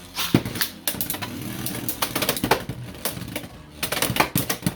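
Two Beyblade X spinning tops, Wyvern Gale and Hell's Chain, battling in a plastic stadium: a rapid, irregular clatter of sharp clacks as they hit each other and the stadium walls, with clusters of hits near the start, about two seconds in and about four seconds in.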